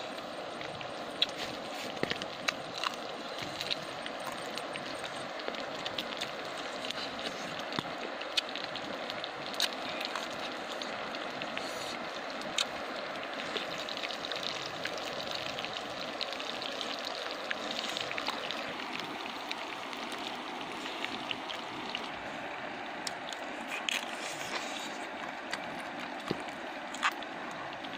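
Someone chewing grilled pig ear, with scattered sharp crunching clicks from the chewy cartilage. Under it runs a steady rushing sound of river water.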